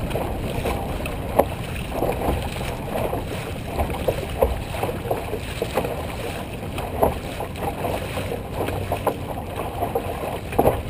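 Dragon boat paddles catching and pulling through the water, short splashes about once a second, over steady wind on the microphone.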